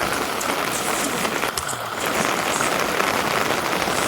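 Steady rain falling, a dense patter of drops, easing briefly about a second and a half in.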